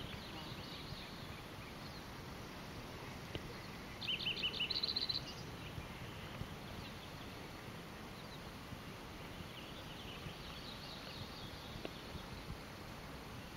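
Small birds chirping faintly over a steady low background noise, with one bird giving a quick run of high, rapidly repeated chirps about four seconds in.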